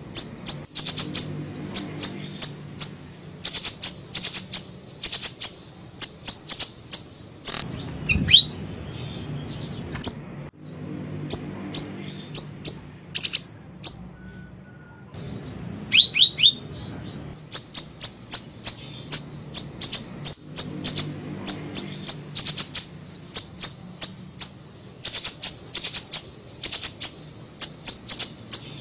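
Siri-siri songbird singing: quick series of sharp, high-pitched chirps in rapid clusters, with two short pauses, over a faint low hum.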